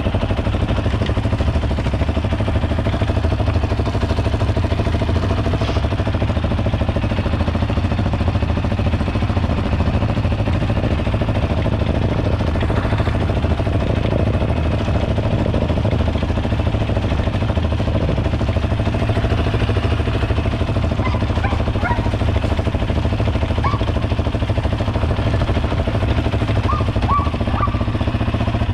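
Steady motor-vehicle engine and road rumble, even and unbroken, with a few faint short squeaks near the end.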